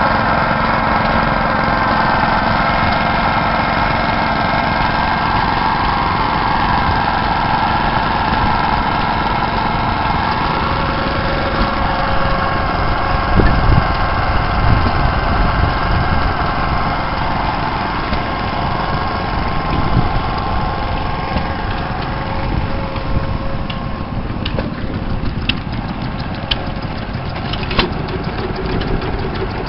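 Old stationary engines running steadily, with a few sharp ticks or clicks near the end.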